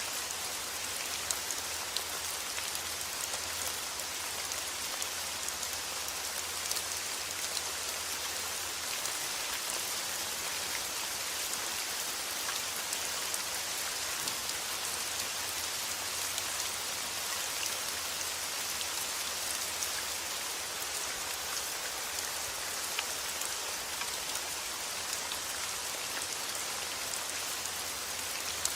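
Steady rain falling on a surface: an even hiss with many small drop ticks and no let-up.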